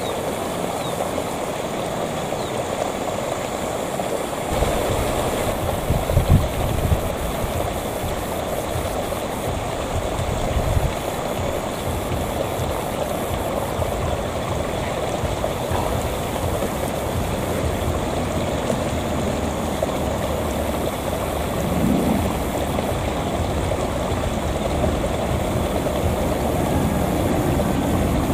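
Diesel-electric locomotive hauling a passenger train, heard approaching: a low engine rumble that comes in a few seconds in and grows slowly louder towards the end, over a steady rushing noise.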